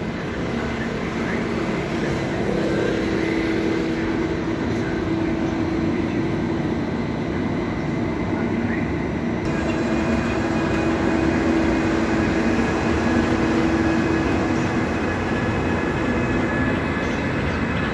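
Steady rumble of a passenger train with a continuous electric hum. The sound changes abruptly about halfway through.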